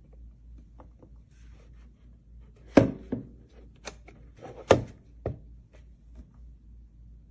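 A few sharp knocks, two of them loud, about two seconds apart, with fainter taps in between.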